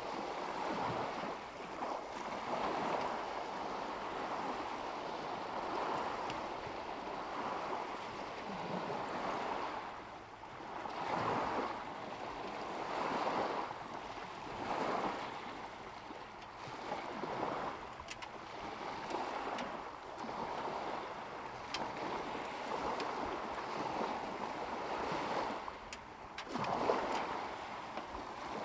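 Small lake waves lapping against the shore, the wash swelling and fading every couple of seconds.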